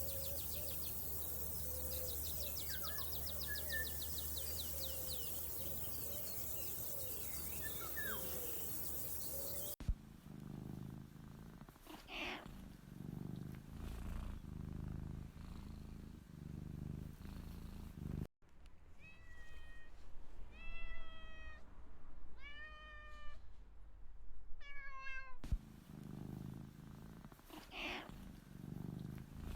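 Outdoor ambience with birds chirping and insects trilling. After a cut about a third of the way in, a cat purrs in slow pulses. It breaks off in the middle for a run of short, high meows, then the purring resumes.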